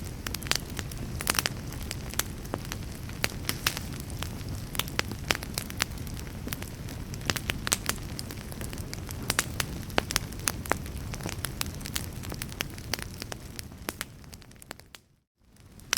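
Fireplace fire crackling, with frequent sharp pops over a steady low rumble of the flames. Near the end it fades out to silence for a moment, then fades back up.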